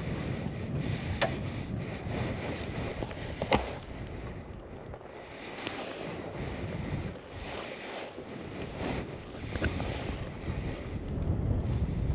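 Steady rush of river water, with wind buffeting the microphone in low gusts and a few small clicks.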